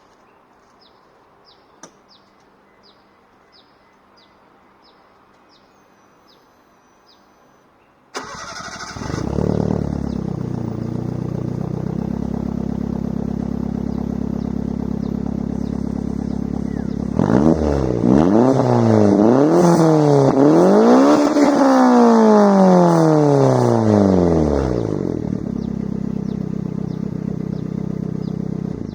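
Engine with a megaphone exhaust started about eight seconds in, idling steadily, then revved several times in quick blips, the last held longest, before dropping back to idle. Faint regular chirps are heard before the engine starts.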